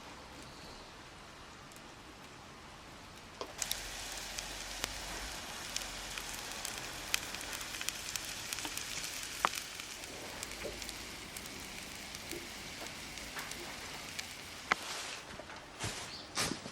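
Sizzling with sharp crackles and pops from cooking over a wood fire, starting suddenly about three and a half seconds in after a faint hiss.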